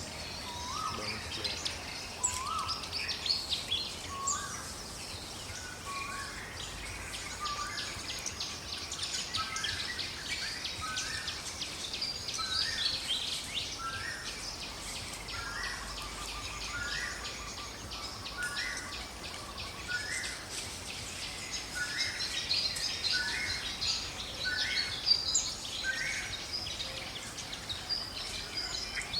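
Birds singing in a forest chorus: one bird repeats a short call about once a second over many higher, quicker chirps.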